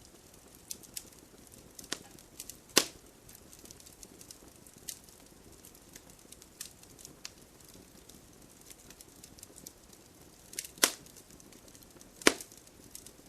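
Campfire crackling: irregular sharp pops and snaps of burning wood over a faint hiss. The loudest snaps come about three seconds in and twice near the end.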